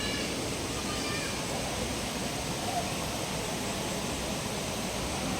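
Forest river water rushing over rocks in a steady hiss. Faint voices come through near the start and about a second in.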